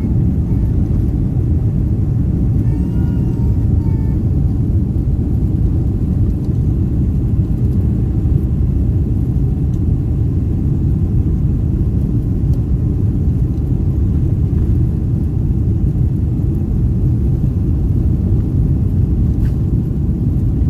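Loud, steady rumble of a Boeing 747-400's engines and rushing air heard from inside the economy cabin during takeoff.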